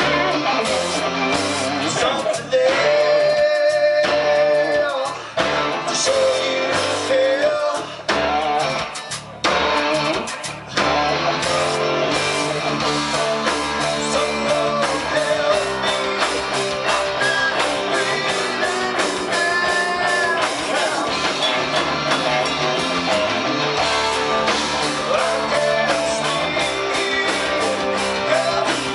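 Rock band playing, with guitar and singing.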